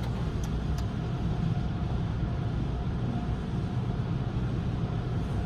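Steady low rumble heard from inside a car riding the conveyor of a tunnel car wash at the start of the wash, with a faint steady hum above it and a couple of light ticks about half a second in.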